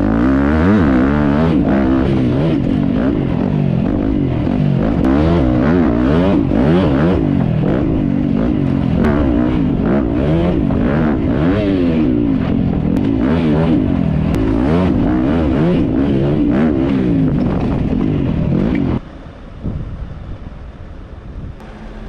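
Off-road dirt bike engine revving hard while riding, its pitch climbing and falling again and again with the throttle and gear changes; it cuts off abruptly about three seconds before the end.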